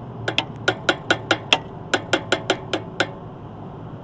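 Light hammer taps on a metal V-belt pulley to nudge it along the motor shaft into alignment: about thirteen quick ringing taps in two runs, a short pause between them.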